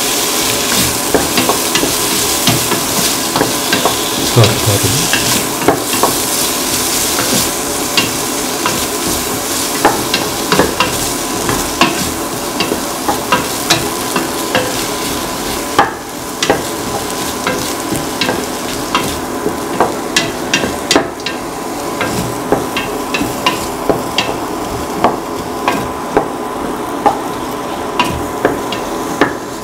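Tomato, onion and ginger pieces sizzling in oil in a pan while a spatula stirs them, knocking and scraping against the pan in many sharp clicks. The sizzle eases a little about halfway through.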